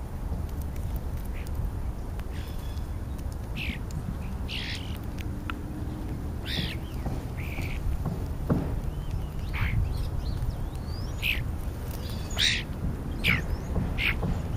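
European starlings calling: a scattered series of short, sharp, high calls that come more often in the second half, over a steady low rumble.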